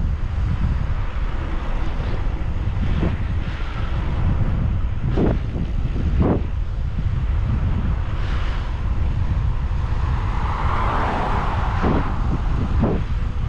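Wind rushing over the microphone of a camera on a moving bicycle: a steady low rumble with a few brief gusts.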